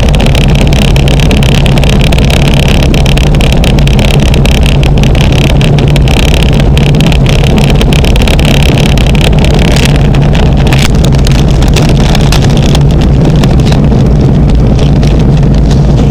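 Luscombe light aircraft's piston engine running steadily, loud and close, with a constant low drone.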